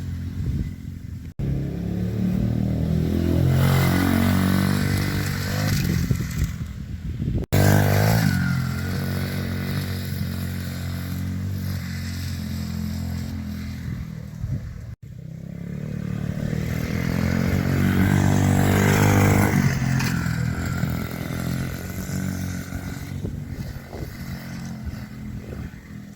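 Small dirt bike engine revving up and down as it is ridden, its pitch climbing and falling back several times. The sound breaks off for an instant three times.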